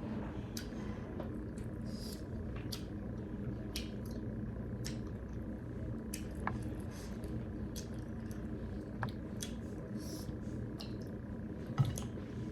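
Close-miked eating: scattered short wet clicks of chewing and mouth smacks, over a steady low hum, with one louder knock near the end.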